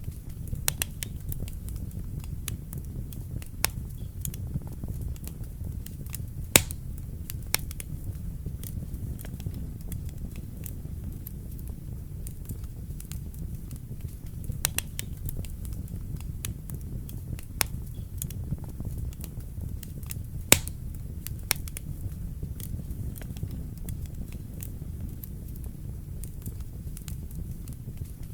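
Wood fire burning in a fireplace: a steady low rumble of flames with irregular sharp crackles and pops from the burning logs, two louder pops standing out, one about six seconds in and one about twenty seconds in.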